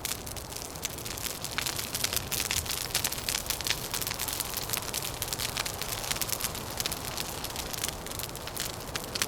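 Wood fire crackling, with many quick, irregular pops and snaps over a steady low background rush.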